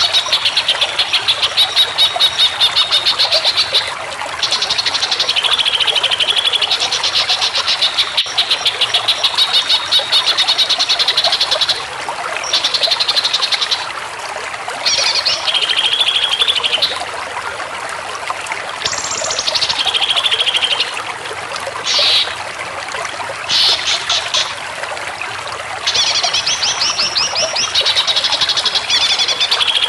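Animal calls in long, rapid pulsing trills a few seconds apiece, broken by short gaps, with a few shorter downward-sliding calls, over a steady background rush.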